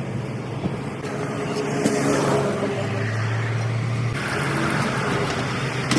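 An engine running with a steady low hum under general noise; the hum grows stronger for about a second in the middle.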